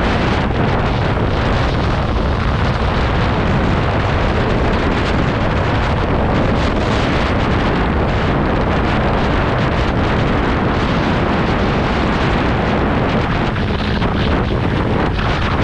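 Heavy wind rush on the microphone of a Yamaha R3 motorcycle being ridden at speed, steady throughout, with the bike's parallel-twin engine running under it.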